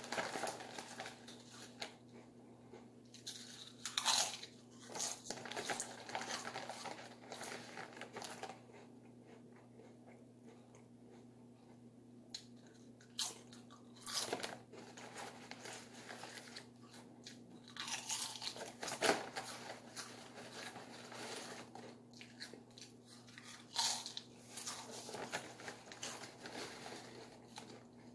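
Close-miked eating: irregular crunching bites and chewing of crisp food, with a lull of a few seconds about a third of the way in. A faint steady low hum runs underneath.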